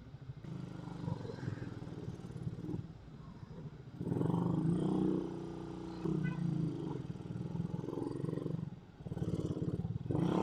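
Suzuki Raider 150 motorcycle engine running under way. It gets louder from about four seconds in and dips briefly near the end.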